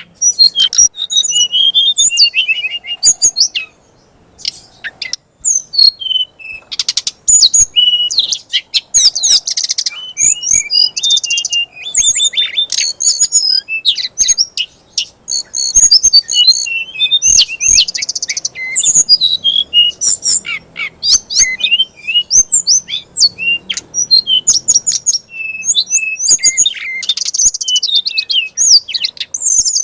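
A songbird singing loudly and without pause: rapid chirps and sweeping whistled notes, broken by several harsh buzzy trills. This is a fast, aggressive 'fighter'-style song.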